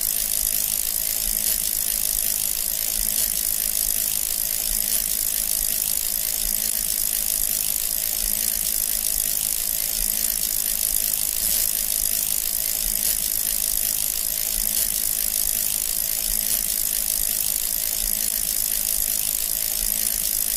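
Steady, rapid mechanical ratcheting and whirring of a small gear mechanism, with a faint soft pulse about once a second.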